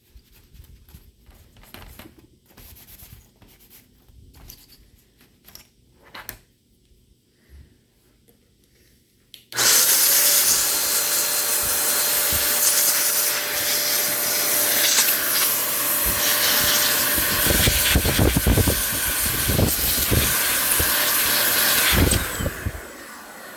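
Faint handling noises, then about ten seconds in a loud, steady hiss of compressed air starts suddenly and blows dust out of the laptop for about twelve seconds, with some low bumps partway through. It cuts off near the end.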